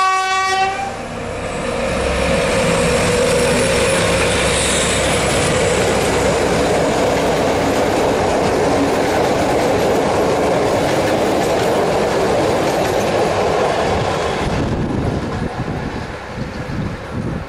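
The horn of an SU45 diesel locomotive, a single steady tone, cuts off within the first second. Then the locomotive and its passenger coaches run past close by: a loud, steady rush of engine and wheels on the rails. It drops noticeably quieter about three-quarters of the way through.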